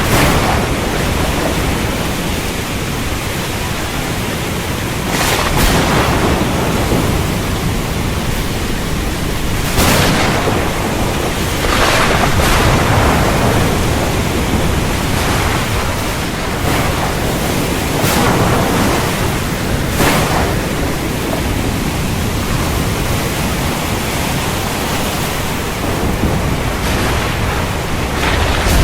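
Thunderstorm: steady heavy rain with a low rumble of thunder underneath, and several sharp cracks of thunder spread through it.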